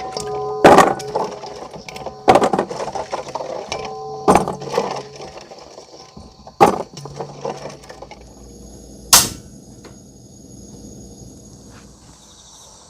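A series of sharp cracks and knocks, some followed by a brief ringing tone, spaced a second or two apart, with a last loud crack about nine seconds in; after it, quieter with a faint steady high tone.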